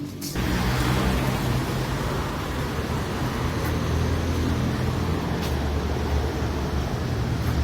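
Car engine running with a low, steady hum under road and tyre noise.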